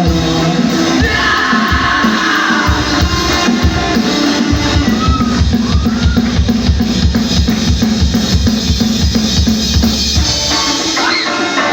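Rock band playing live, with the drum kit to the fore over a held chord; from about four seconds in, a fast, even run of bass drum beats drives on until shortly before the end.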